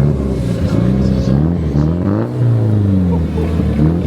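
A car engine being revved over and over, its pitch rising and falling several times, with a bigger rev that climbs and drops about two seconds in.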